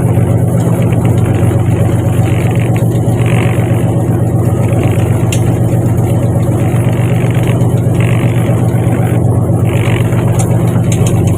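Fishing boat's inboard engine running steadily underway, a loud, constant low drone.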